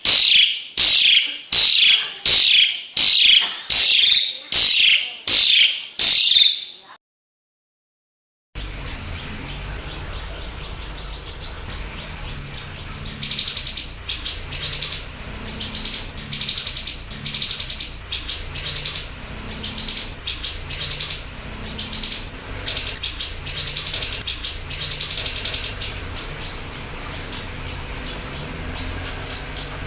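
Recorded songbird calls: a loud high call repeated about twice a second stops about seven seconds in. After a short silence, a different bird's rapid, high chattering trills come in, over a faint low hum.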